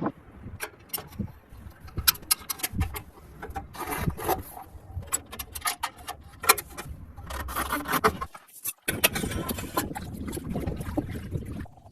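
Irregular clicks, knocks and scraping from hand work on metal parts, with a short break a little past the middle.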